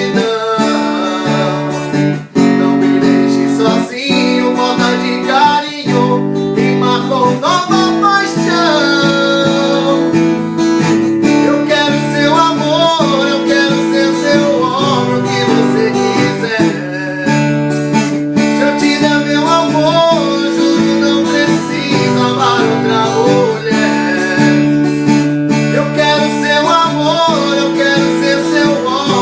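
Acoustic guitar strumming chords with a man singing a sertanejo song in Portuguese. The guitar carries the opening seconds and the voice comes in about eight seconds in.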